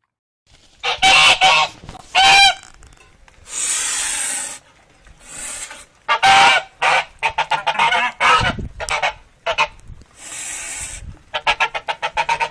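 Farm poultry calling: loud single honks, then runs of rapid cackling notes, with hissing stretches between the calls.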